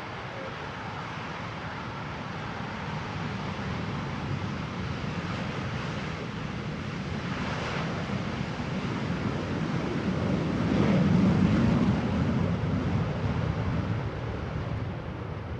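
Blue Angels F-18 jet engines passing overhead. The roar builds slowly to its loudest about eleven seconds in, then fades away.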